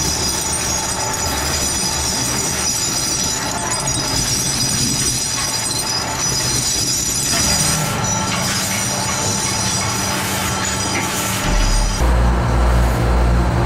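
Workshop machinery running: a steady grinding noise with a high thin whine. Near the end a deep pulsing hum from a motor joins in.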